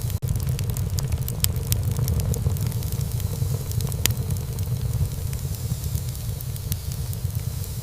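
Wood fire in a fireplace crackling and popping irregularly over a steady low rumble of burning, with a momentary break in the sound just after the start.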